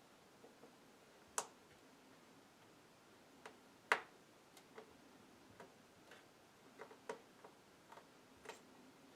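Scattered light clicks and taps of multimeter probes and hands working at a disk drive's head while measuring its resistance, irregular, with two sharper clicks about a second and a half and four seconds in.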